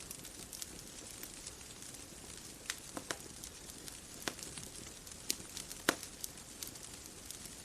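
Bonfire crackling: irregular sharp pops and snaps, a few louder than the rest, over a steady soft hiss.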